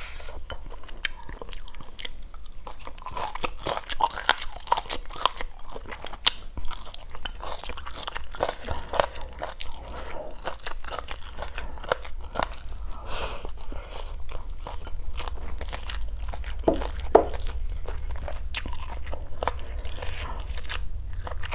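A person chewing mouthfuls of rice and stir-fried lemongrass-chili chicken, a steady irregular run of small clicks and mouth noises.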